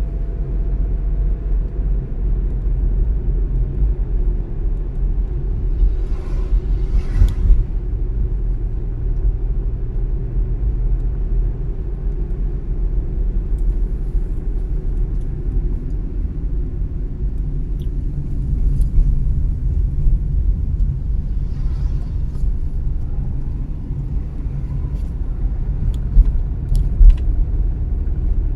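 A car driving on city streets: a steady low rumble of engine and tyres on the road. A few short knocks or clatters come through, about seven seconds in and again near the end.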